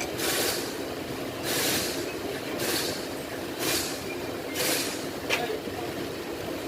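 Short bursts of hiss, roughly one a second and each under half a second long, over a steady low hum, with a single sharp click about five seconds in.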